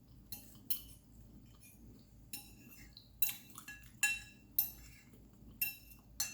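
Metal utensils clinking against dishes: about ten sharp, irregularly spaced clinks, each with a brief ringing tone, the loudest near the end.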